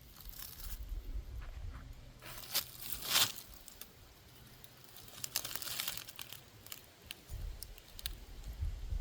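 Irregular crackling and crinkling noises, loudest about a third of the way in and again past the middle, over an on-and-off low rumble.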